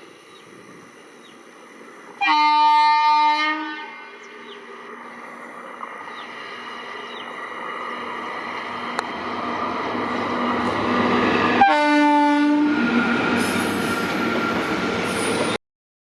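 Indian Railways WAP-1 electric locomotive sounding its horn twice, a blast of about a second and a half and then a shorter one, as the train approaches with its running noise growing steadily louder. The sound cuts off suddenly near the end.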